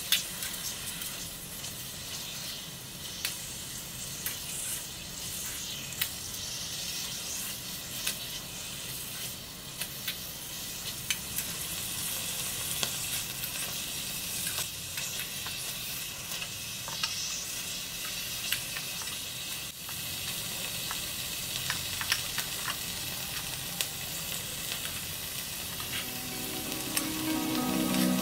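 Bok choy and chicken sizzling as they stir-fry in a miniature wok, stirred with a tiny metal spatula that ticks against the pan now and then. Music comes in near the end.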